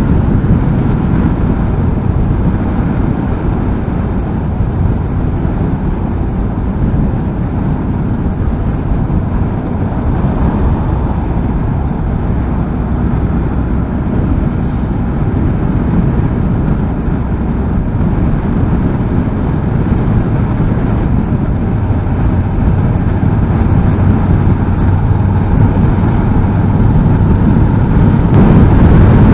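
Honda NC750S parallel-twin motorcycle running at a steady cruise, its engine hum under heavy wind rush on the microphone from riding in strong wind. The noise gets a little louder in the last few seconds.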